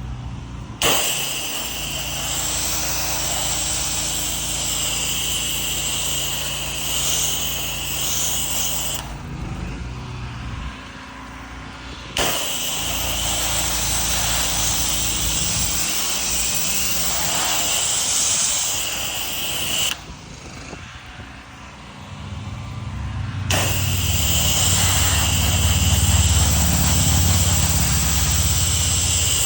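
Pressure washer spraying: a steady hiss of the water jet over the drone of the machine's engine, broken off and restarted by several abrupt cuts, with the low engine drone strongest near the end.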